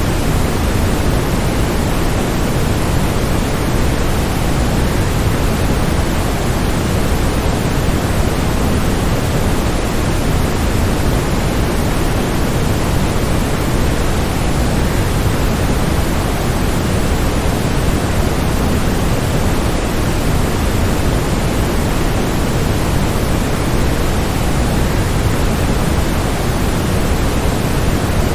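Waterfall: a continuous, unchanging rush of falling water, heaviest in the low end.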